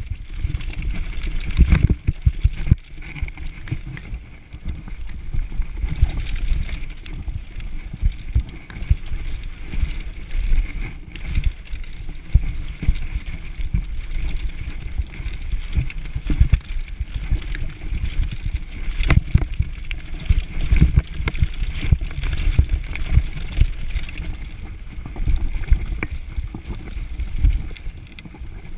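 Mountain bike riding fast down a dirt downhill trail: wind buffeting the microphone in a heavy, gusty rumble, tyres rolling over the ground, and irregular knocks and rattles as the bike hits bumps.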